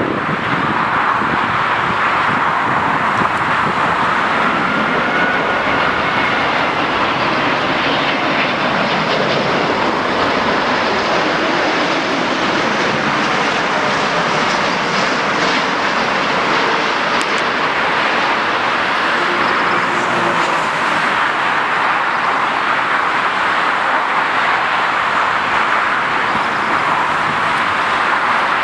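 Jet aircraft engines running with a steady, loud rushing noise. A faint whine glides up in pitch a few seconds in.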